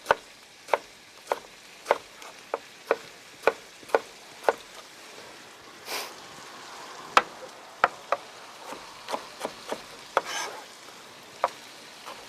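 Knife chopping on a cutting board, dicing a tomato: even strokes about two a second for the first four seconds or so, then scattered, irregular knocks. A faint sizzle of almonds frying in butter runs underneath.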